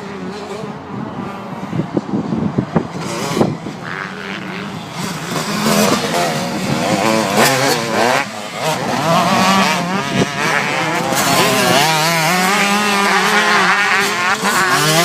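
Motocross bike engines revving hard and backing off, with the pitch rising and falling quickly as throttle is opened and shut. The sound grows louder from about six seconds in.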